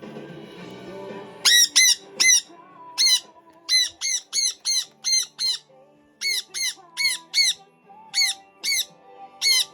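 Pet bird squawking: a rapid run of short, sharp calls, each sweeping quickly up in pitch, starting about a second and a half in and coming roughly twice a second.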